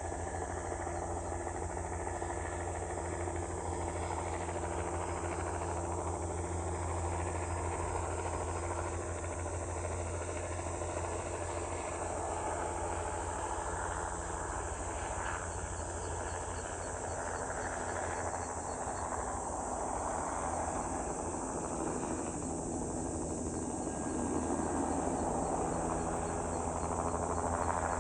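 Insects chirping steadily, with a fast ticking trill that gets clearer near the end. Underneath runs a steady low hum with several held tones, like a helicopter's engine and rotor.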